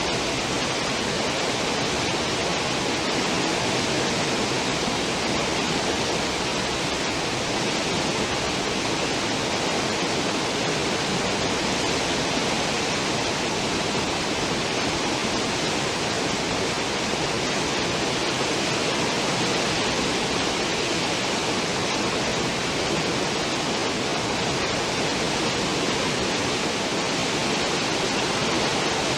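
Cruise ship's stern wake: water rushing steadily behind the ship, an even noise that does not change.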